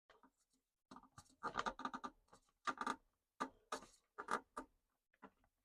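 A spin-on oil filter being screwed by hand onto a Barrus Shire narrowboat engine, done up hand tight: faint, irregular scraping and clicking of hands and metal.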